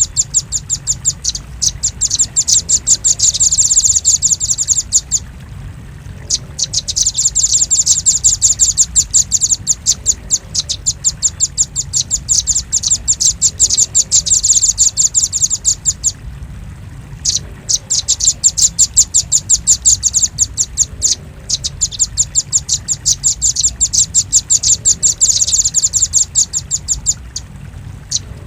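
Velvet-fronted nuthatch calling: rapid strings of sharp, high chipping notes in long bursts, broken by a few short pauses.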